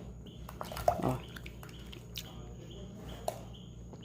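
A few sharp clicks and knocks of kitchen utensils and pans being handled, the loudest about a second in, over faint high chirps that repeat throughout.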